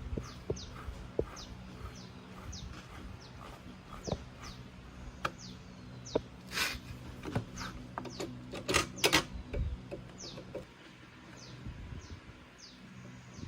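A bird calling over and over with short, high, falling chirps, about two a second, over a low steady hum. Scattered clicks and a few louder knocks come past the middle, likely from work on the bike.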